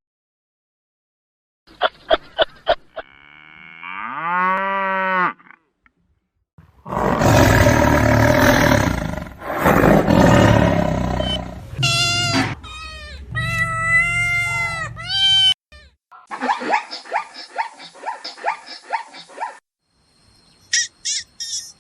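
Several different animal calls in quick succession, separated by short gaps. There are quick pulsed calls, a drawn-out call rising in pitch, a long loud noisy call about a third of the way in, pitched wavering calls, another run of pulses, and high quick chirps near the end.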